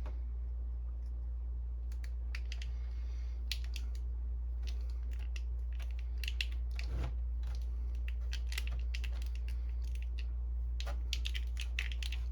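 Irregular small clicks and scratches of a pointed knife picking and scraping at the sticker on a plastic Canon ink cartridge, over a steady low hum.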